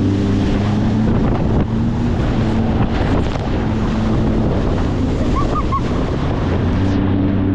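Boat engine running steadily under way, a low constant hum, with wind rushing over the microphone.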